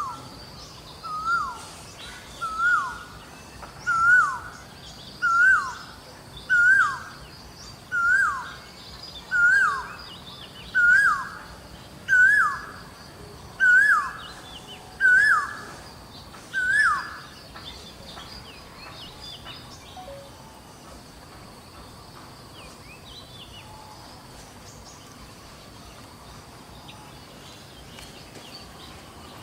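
A bird calling one short whistled note over and over, each note rising and then dropping steeply, about every one and a half seconds. The series grows louder and slightly higher and stops after about a dozen notes, two-thirds of the way through. Forest ambience follows, with a faint steady high hum and scattered distant chirps.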